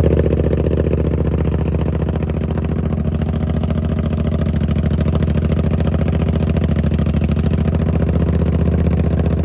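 Suzuki GSX-8R's parallel-twin engine idling steadily just after a cold start, very loud through a TOCE full-system exhaust running without its DB killer baffle.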